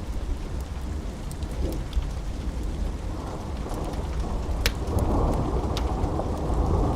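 Steady rain with a low rolling rumble of thunder that swells over the last couple of seconds, and sharp pops from a crackling wood fire scattered throughout.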